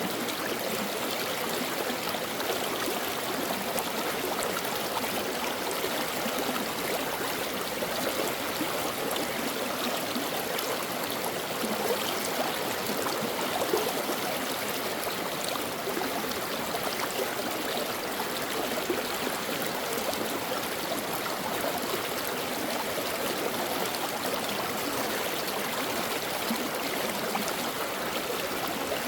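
Brook water running steadily over rocks, a continuous rushing babble with small gurgles and splashes.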